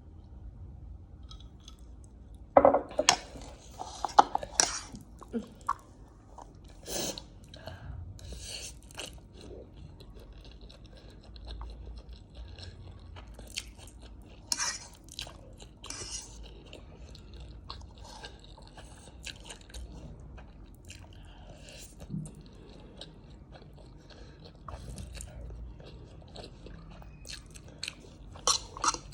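Close-miked mukbang eating sounds: a person chewing food, with bursts of crunchy, crackly bites, loudest a few seconds in and again near the end, and softer wet chewing in between.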